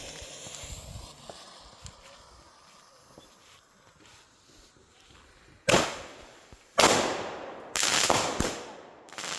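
Consumer "machine gun" firework going off: a short hiss at the start, then a few seconds later loud bangs about a second apart, the third drawn out into a crackling burst.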